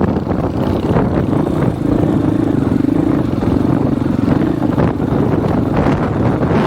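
Dirt bike engine running at a steady pace, its tone holding level through the middle, under heavy wind buffeting on a microphone with no wind sock.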